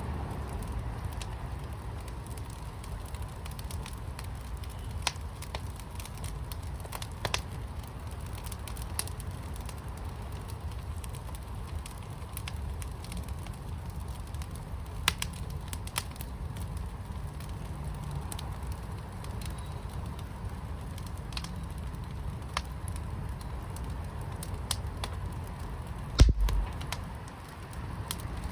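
Fire burning in a fire pit, crackling with scattered sharp pops over a steady low rumble, and one louder thump near the end.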